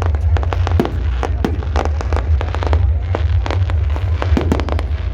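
Fireworks display going off, many bangs and crackles in quick, irregular succession over a steady low rumble.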